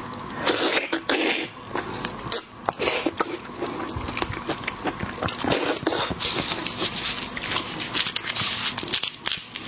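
Seafood being eaten close to the microphone: a steady run of crunches, clicks and chewing, with shells being handled and bitten.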